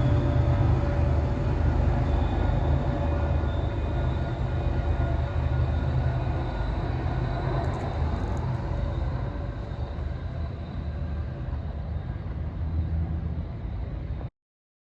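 Train running past on the rails: a steady low rumble with a few faint held tones above it, slowly fading. The sound cuts off abruptly near the end.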